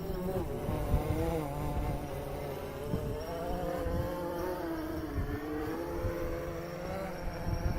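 DJI Phantom 3 quadcopter's propellers buzzing as it hovers and flies in strong wind, the pitch wavering up and down as the motors fight the gusts, with wind rumbling on the microphone.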